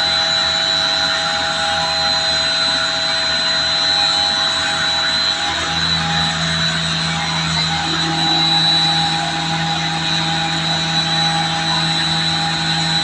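Stationary diesel engine rig with its electric starting motor, running steadily with a high whine over a mechanical drone. A lower hum joins about six seconds in, and another about eight seconds in.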